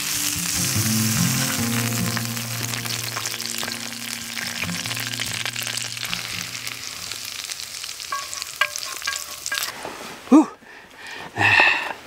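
Bacon, trout and shallots sizzling in a cast-iron skillet as the food is moved out of the pan, over soft background music. The sizzle cuts off sharply near the end and is followed by a single loud knock.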